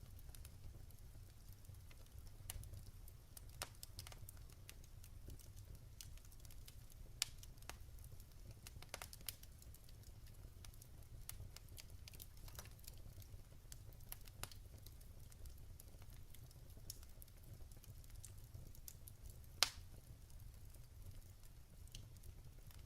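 Log fire in a fireplace crackling, with irregular sharp pops and one louder pop near the end, over a low steady rumble.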